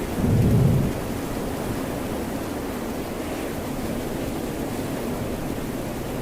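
Ocean surf and rain as a steady wash of noise, with a low rumble swelling and fading within the first second.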